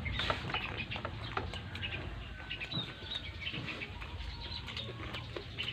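Someone eating crispy lechon: irregular crunches and clicks of chewing, with birds calling in the background.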